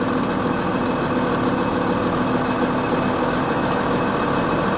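Tigercat 726B feller buncher's diesel engine idling steadily.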